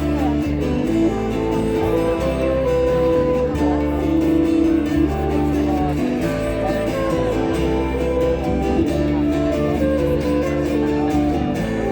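Instrumental music led by strummed guitar, with steady bass notes underneath.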